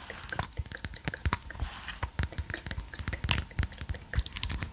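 Rapid, irregular clicking and tapping from a handheld massage roller ball being handled for ASMR.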